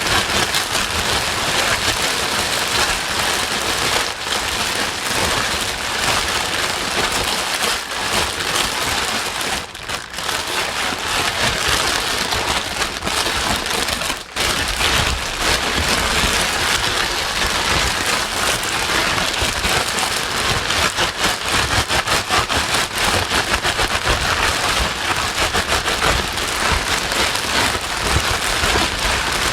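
Steady, dense rain noise with a fine crackling patter, played as a white-noise track. It drops away briefly twice, about a third of the way through and again about halfway through.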